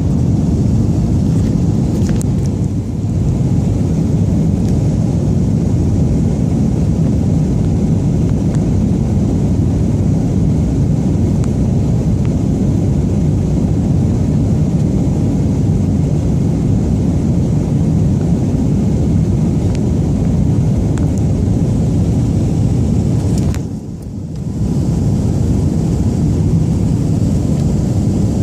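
Steady low roar of an airliner's jet engines and rushing air, heard inside the passenger cabin on takeoff, with a brief dip in loudness about 24 seconds in.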